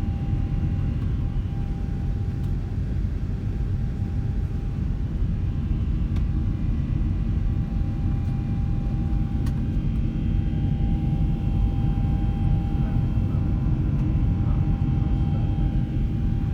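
Steady cabin noise of a Boeing 747-8 in flight: the low rumble of its GEnx turbofan engines and rushing air, with a steady whine running over it.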